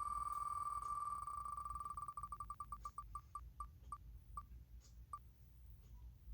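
Electronic ticking of a random letter picker: rapid beeps at one pitch that run together at first, then slow down and stop about five seconds in.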